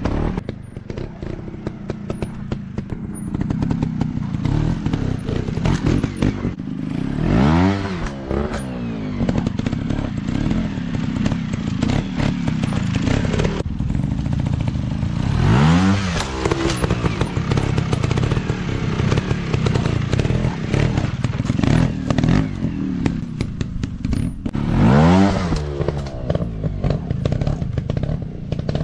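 Off-road dirt bike engines running, with three surges of revving about nine seconds apart, each rising sharply in pitch and falling away again.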